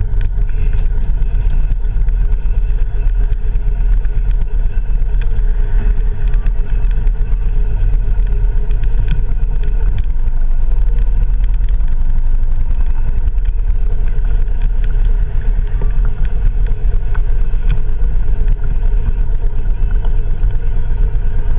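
Wind rush and the low rumble of a moving vehicle's engine and road noise, picked up by an action camera's microphone on the handlebars, with the wind buffeting the microphone unevenly.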